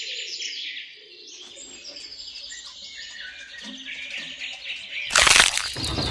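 Small birds chirping and twittering continuously in high, quick calls, with a loud rush of noise about five seconds in.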